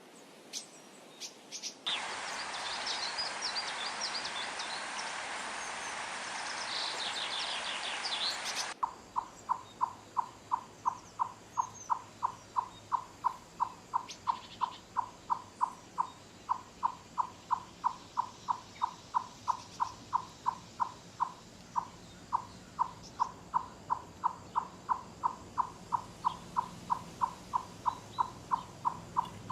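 A chipmunk calling, a steady series of short, sharp chips at about two to three a second, starting about nine seconds in. Before that, a few seconds of high chirping over a hiss.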